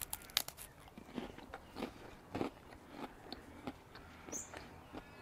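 A person biting into a cracker topped with crumbly pepper jack cheese, with a burst of crackly crunches at the start, then chewing with regular crunches a little under twice a second.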